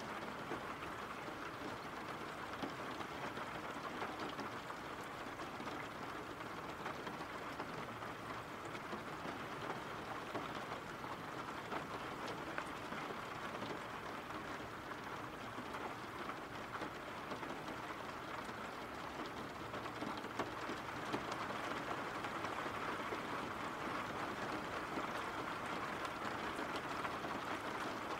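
Steady rain falling, an even hiss that grows a little louder about two-thirds of the way through.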